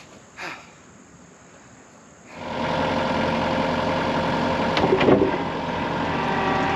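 An engine starts up about two seconds in and then runs steadily, with a brief louder clatter about halfway through.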